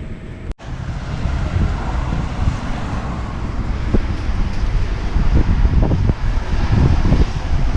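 Strong storm wind buffeting the microphone: a loud, gusty rumbling rush that briefly cuts out about half a second in.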